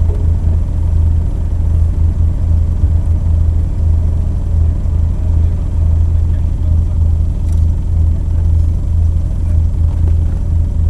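Car engine idling with a steady low rumble, picked up by a camera mounted on the car itself.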